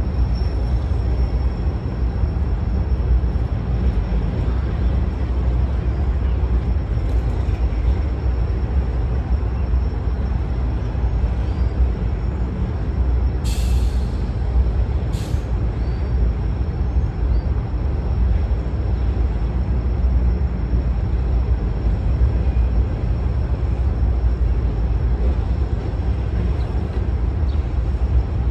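Norfolk Southern freight train of covered hopper cars rolling past: a steady low rumble of wheels on rail. Two short hisses of air, typical of a train's air brakes, come about halfway through.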